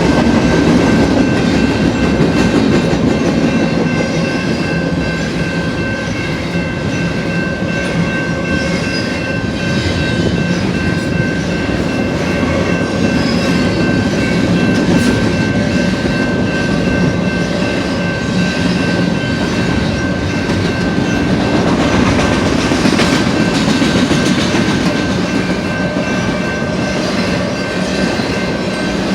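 Double-stack container well cars of a freight train rolling past at steady speed: a continuous rumble with wheels clattering over the rail and a thin steady high whine.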